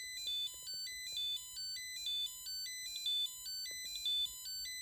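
Portable nickel-strip spot welder's buzzer beeping continuously: a short electronic melody of stepped, sharp-edged beeps that loops about once a second, in a glitching state that its owner can't explain.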